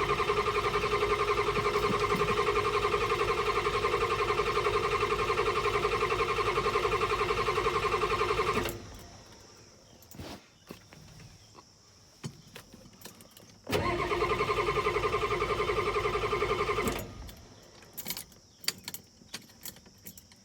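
Ford 6.9-litre IDI V8 diesel being cranked on the starter without catching: a long crank of about eight and a half seconds, a pause, then a second crank of about three seconds, each a steady fast pulsing from the engine turning over. It is a cold start on a diesel that has sat a long time.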